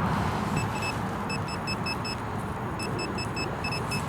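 Metal-detecting pinpointer beeping in quick runs of short, high, identical beeps, about five or six a second, with a pause near the middle: it is sounding on a buried metal target in the dug hole. A low rumble of wind on the microphone runs underneath.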